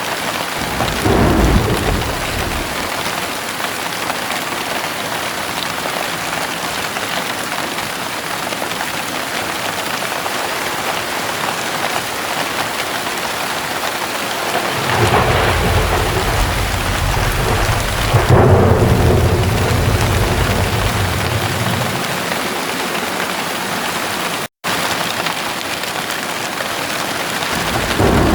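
Heavy rain falling steadily, with thunder rolling over it: a short rumble about a second in, a long rumble of several seconds in the middle, and another beginning at the very end. The sound cuts out for an instant about two-thirds of the way through.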